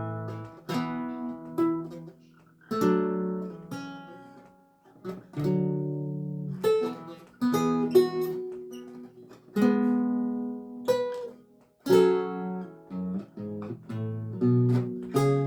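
Solo lute music: plucked chords and single notes, each ringing out and fading, in unhurried phrases with short pauses between them.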